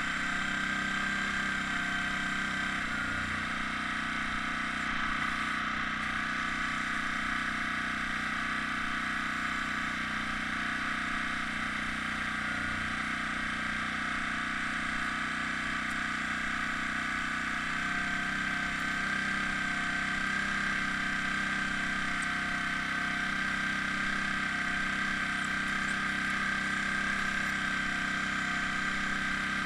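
Air compressor feeding an airbrush, running with a steady hum and hiss and a constant high tone; its low drone shifts slightly twice.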